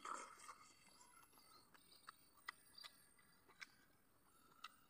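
Faint chewing: a sparse scatter of soft mouth clicks and smacks from someone eating rice and chicken by hand, over near silence.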